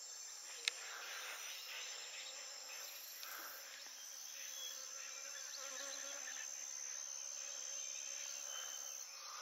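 Faint buzzing of honeybees swarming around a tent, over a steady high-pitched insect drone, with one sharp click just under a second in.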